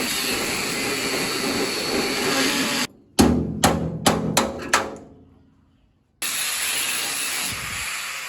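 Workshop tool noise: a steady power-tool run that cuts off suddenly, then about six sharp metal-on-metal knocks in quick succession, then the steady tool noise again.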